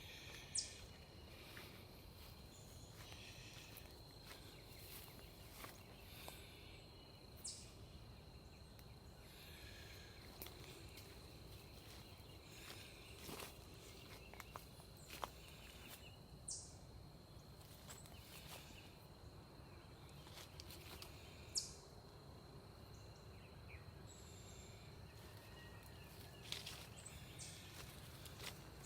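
Quiet outdoor ambience: a faint steady hiss with a thin, steady high tone, broken by a few brief soft clicks and ticks.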